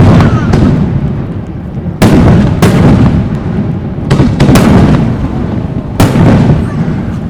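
Aerial fireworks shells bursting overhead: loud booms come in clusters about every two seconds, one or two at a time, and each trails off in a long low rumbling echo.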